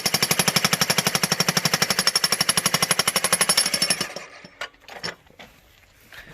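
Bosch Brute electric breaker hammer (jackhammer) pounding a geode rock with a fast, even run of blows, stopping about four seconds in. A few light knocks follow.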